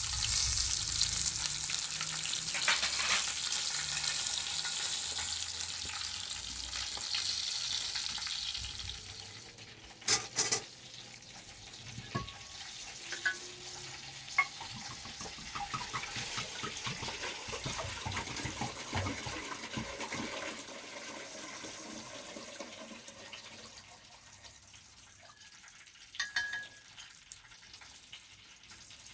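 Food sizzling in hot oil for about the first nine seconds, then the sizzle drops away, leaving a quieter background broken by a few sharp knocks and small clinks.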